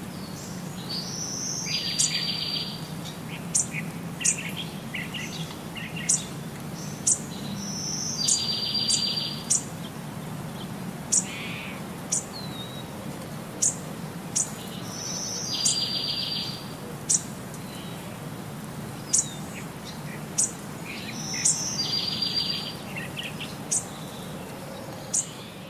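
Birds chirping: short, sharp high chirps about once a second, with a buzzy trill every six or seven seconds, over a steady low hum.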